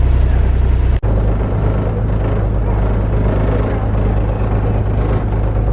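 Catamaran's engine running while under way, a steady low drone that briefly cuts out about a second in.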